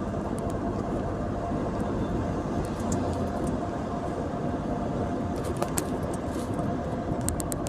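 Car on the move: steady engine and road noise, with a few faint clicks near the end.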